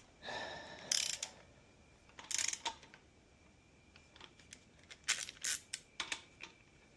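Steel hand tools clinking and a socket wrench ratcheting in short bursts: a brief metallic ring near the start, then clicks about a second in, around two and a half seconds, and a quicker run between five and six seconds, as the main bearing cap bolts are run down close before torquing.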